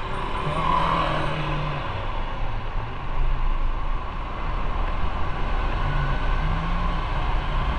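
Motorcycle engine running under way, its note rising and falling a few times, over steady road and wind noise.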